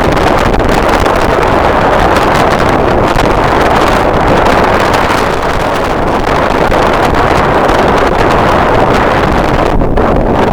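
Strong wind blowing across the microphone: a loud, steady rushing noise with no distinct tones.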